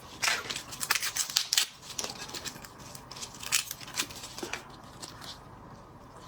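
Crisp snapping and crackling of cooked shrimp shells being cracked open and peeled. The snaps are dense in the first two seconds, then sparser, and fade near the end.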